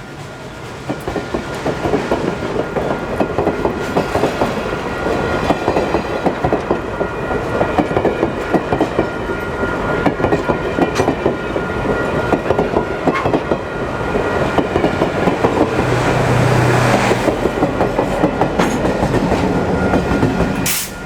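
Central Railroad of New Jersey 0-6-0 steam switcher No. 113 working hard at speed, a fast, unbroken run of exhaust beats over the clatter of its train.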